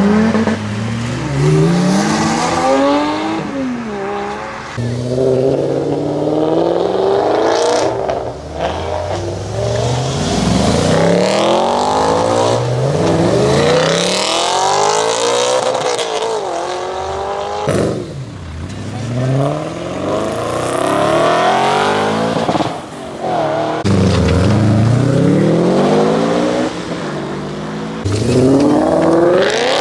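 High-performance car engines revving hard and accelerating away one after another, each pulling up through the revs in a rising howl, then dropping back as it shifts or passes, repeated many times.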